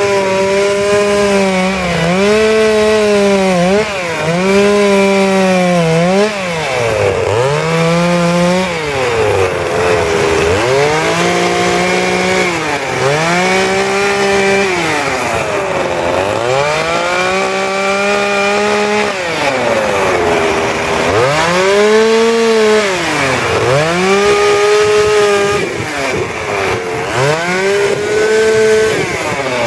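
Two-stroke chainsaw carving wood, its engine speed sagging each time the chain bites into the wood and climbing back as the cut eases, over and over every second or two.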